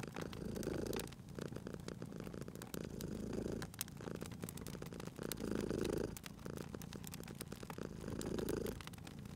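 Domestic cat purring, the purr swelling and easing with each breath about every two and a half seconds, over the snaps and crackles of a wood fire.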